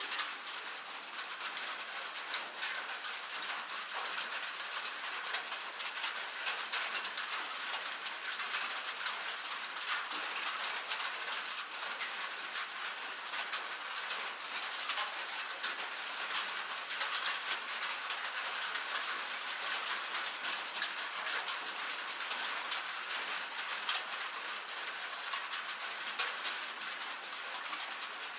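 Rain falling on a metal roof: a steady, dense patter of countless small drop impacts, ticking and rattling on the sheet metal.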